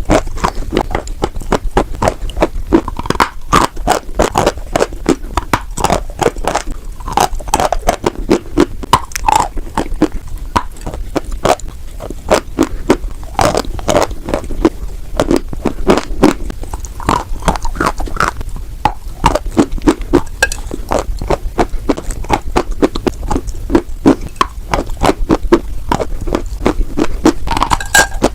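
Pieces of white chalk being bitten and chewed close to the microphone: dense, irregular crunching and crackling, several crunches a second.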